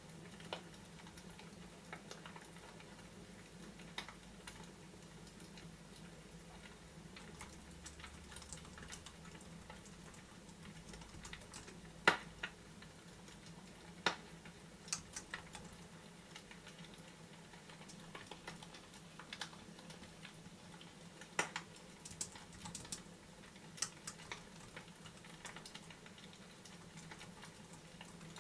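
Fireplace crackling: sparse, irregular sharp pops and snaps, the loudest about halfway through, over a faint steady low hum.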